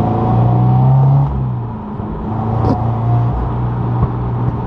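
HKS-supercharged Toyota GT86's flat-four engine pulling under acceleration, heard from inside the cabin. The note climbs for about a second, dips briefly, then builds again and holds.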